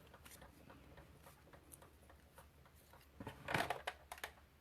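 Cardstock and a cutting die being handled on a craft table: faint taps and clicks, then a louder rustle of paper about three and a half seconds in.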